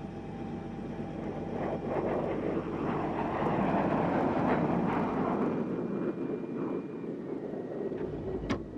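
Large aircraft passing by, its engine and rotor noise swelling to a peak about halfway through and then fading, with two sharp clicks near the end.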